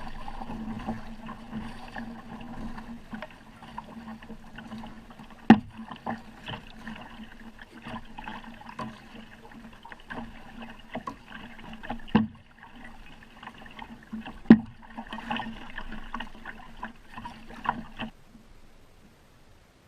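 Kayak out on the water, with water swishing and splashing under the paddling. Three sharp loud knocks stand out, about 5, 12 and 14 seconds in. The sound stops abruptly near the end.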